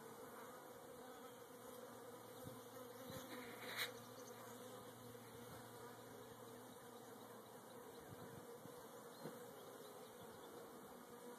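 Faint, steady hum of a colony of Italian honeybees buzzing on an open hive, with a light click about four seconds in.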